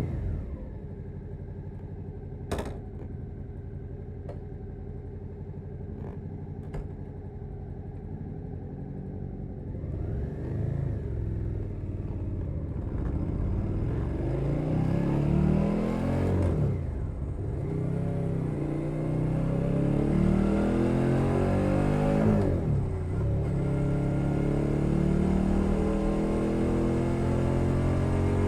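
2021 Suzuki SV 650's 645 cc V-twin with a Leo Vince Nero exhaust, idling with a few sharp clicks. It then pulls away and accelerates, revs rising and falling through three upshifts as the engine gets louder.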